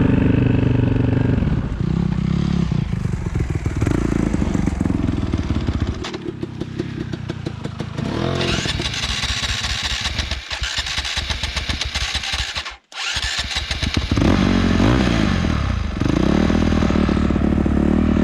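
Dirt bike engine running and revving up and down as the bike is ridden. The sound drops out for a split second about thirteen seconds in.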